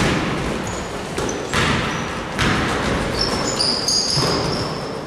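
Basketballs bouncing on a gym floor in a large hall, several sharp bounces with echo, and a few short high squeaks, typical of sneakers on the court, about three to four seconds in.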